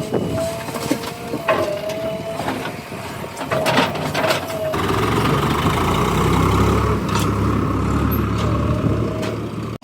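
JCB 3DX backhoe loader's diesel engine working, with a steady whine and a few sharp clunks. About halfway through, the engine revs up hard into a heavier, louder run under load.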